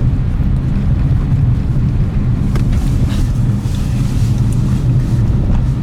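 Steady engine drone and tyre noise heard from inside a moving car's cabin, with a constant low hum.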